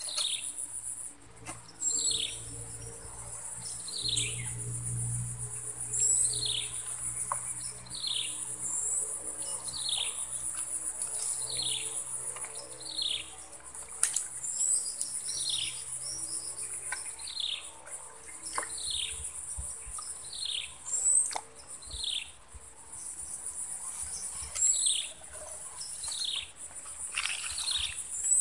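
A bird repeating a short, falling whistled call about once every second or so, over a steady high-pitched insect buzz.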